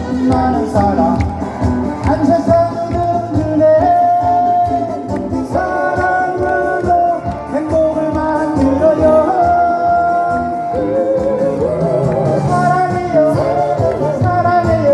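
A song sung live over amplified backing music with a steady beat, the voice holding long notes.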